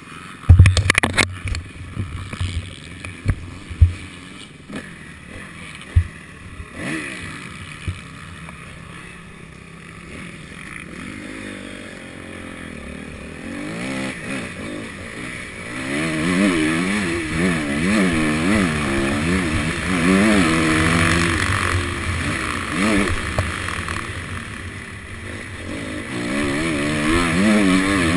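Several sharp knocks and bumps on the helmet-mounted camera in the first few seconds. About halfway in, the Honda CRF250's four-stroke single-cylinder engine comes in, revving up and down over and over as the bike gets under way, growing louder toward the end.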